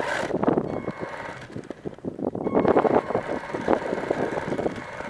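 R/C monster truck driving over rough ground: a dense clattering and rattling from its wheels and chassis with a faint steady whine, and wind buffeting the microphone. It gets louder for a moment about half a second in and again around the middle.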